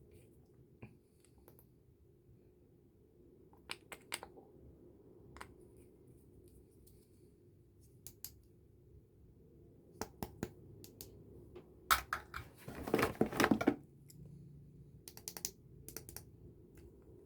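Small plastic makeup cases and packaging being handled, giving scattered clicks and taps, with a quick rattling run of clicks about thirteen seconds in that is the loudest part. A faint steady low hum lies underneath.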